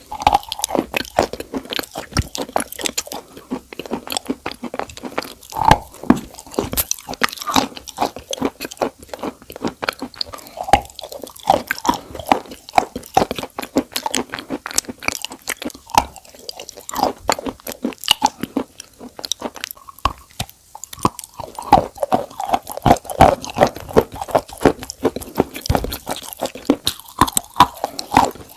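Close-miked crunching and chewing: a dense run of irregular crackly crunches with wet mouth smacks between them.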